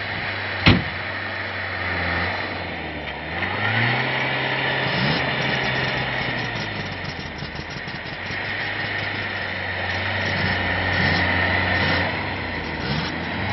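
Motocross dirt bike engine running, its pitch stepping up about three seconds in, with smaller rises and falls later. A single sharp knock sounds near the start.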